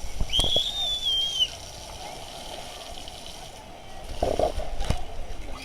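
Water-park pool ambience: splashing and sloshing water under distant crowd noise. A long, high, wavering cry sounds about half a second in, and a louder splash comes a little after four seconds.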